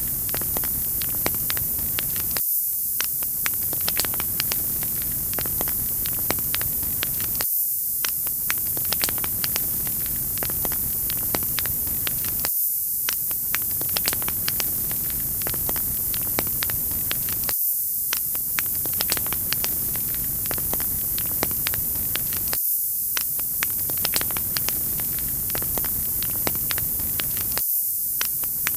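Wood fire crackling: a steady hiss with frequent sharp pops and crackles. The lower part of the sound drops out briefly about every five seconds, as if a short recording were looping.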